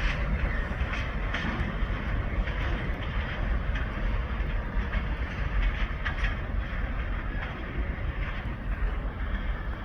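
Freight cars rolling past on the rails: a steady low rumble of wheels on track, with scattered short clacks as wheels pass over rail joints.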